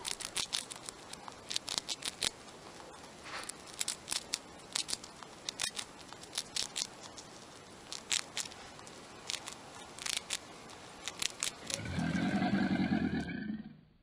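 A pet rat nibbling and crunching dry flower petals, an irregular run of sharp crisp clicks. Near the end a crocodile gives a loud growling call that lasts about a second and a half.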